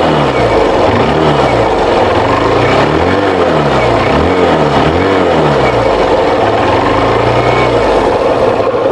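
Hero Hunk motorcycle's 149.2 cc air-cooled four-stroke single-cylinder engine, heard at the exhaust, revved in repeated throttle blips, its pitch rising and falling, then running steadily near the end. A distinct growl.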